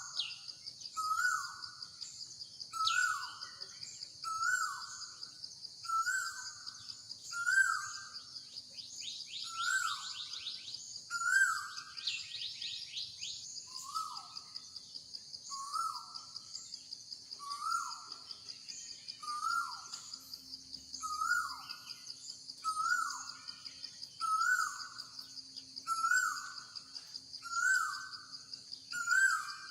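A bird repeats a short call about once a second, each call sliding downward in pitch, over a steady high-pitched insect drone. Twice, about a third of the way in, a quick run of rapid chirps joins them.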